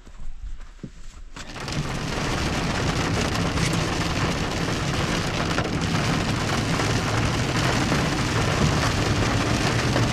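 Heavy downpour of rain, a dense steady hiss that comes in suddenly about a second and a half in, after a few faint knocks.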